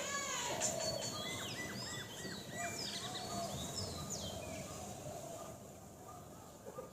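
Small birds calling: a quick run of short chirps and sweeping whistled notes, busiest at first and dying away about four to five seconds in, over a steady background hiss.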